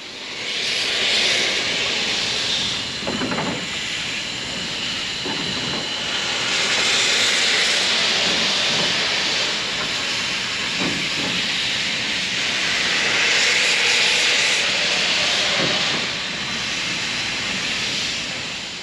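Coal-fired narrow-gauge steam locomotive venting steam with a loud continuous hiss that swells and eases three times.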